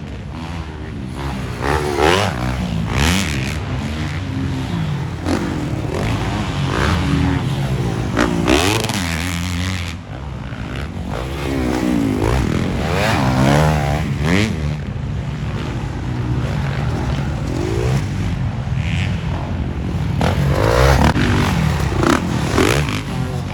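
Several motocross dirt bikes racing, their engines revving up and dropping off again and again, with the overlapping sounds of more than one bike at a time.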